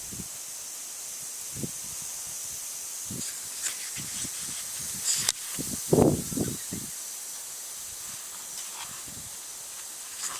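Wind blowing through a field of Yumechikara wheat: a steady high rustling hiss of the swaying stalks and ears, with gusts buffeting the microphone, the strongest about six seconds in.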